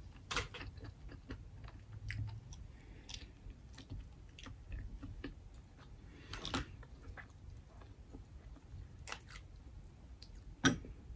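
Soft chewing of steamed mussels, with scattered clicks of mussel shells being handled; the sharpest click comes near the end.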